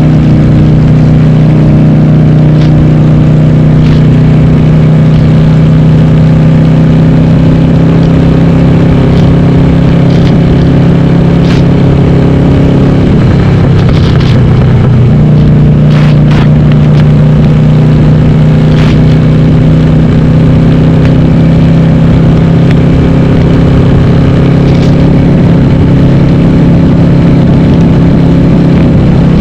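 Loud running of a Harley-Davidson Sportster 883R's air-cooled V-twin, bored to 1200 cc, through a Cobra Speedster 909 exhaust with the dB killers removed, heard onboard while riding. The steady engine note dips briefly around the middle, then settles back to a steady pitch.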